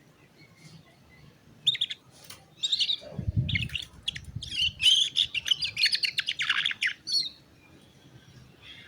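Canary singing in quick, choppy trills and chirps that grow denser and louder in the middle of the phrase, then stop about seven seconds in. A brief low rumble comes about three seconds in.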